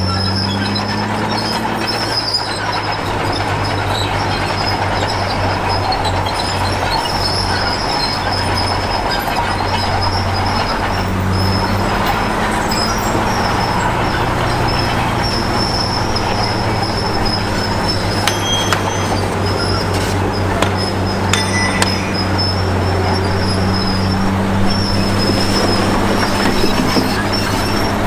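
Komatsu D53P crawler bulldozer's diesel engine running steadily under load, with a high metallic squeal from the steel tracks coming and going and a few sharp clanks in the second half.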